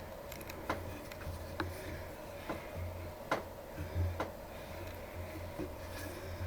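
Hand tap being turned in a tap wrench, cutting threads in a 4140 steel block: scattered sharp metallic ticks and clicks as the tap is worked and backed off to break the chip, over a low hum that comes and goes.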